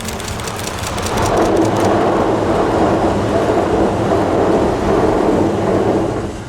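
E655 series electric train passing close by: a steady rushing rumble of wheels on the rails that builds about a second in and drops away sharply near the end.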